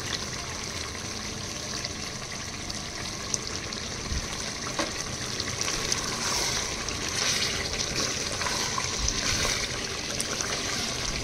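Chicken do pyaza gravy sizzling in a pan on the gas flame: a steady hiss that swells a little about halfway through, with a couple of light clicks.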